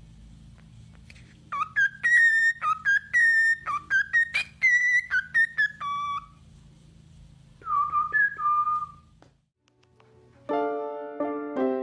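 A pet bird whistling a quick run of clear notes that slide up and down, then two more whistles after a short pause, over a low steady hum. Piano music starts near the end.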